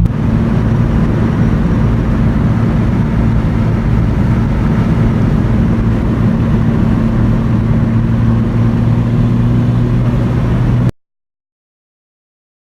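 Turbocharged Acura Integra's four-cylinder engine and road noise at a steady cruise, one constant drone with no rise or fall in pitch. It cuts off suddenly about eleven seconds in.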